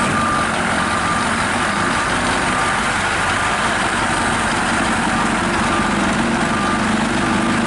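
Heavy truck's diesel engine running steadily at low revs, while a reversing beeper keeps sounding faintly at regular intervals.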